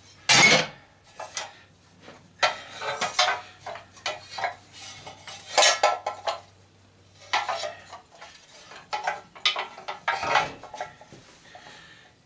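Metal parts clinking and clanking as they are handled on a workbench, in a string of irregular knocks and short rattles, the loudest about half a second in.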